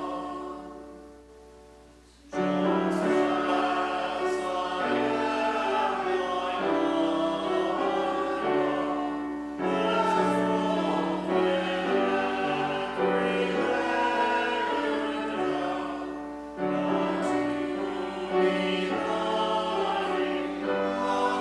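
Many voices singing a hymn in held, slow-moving phrases. A chord fades out, and a new phrase starts sharply about two seconds in, with short breaks between the later phrases.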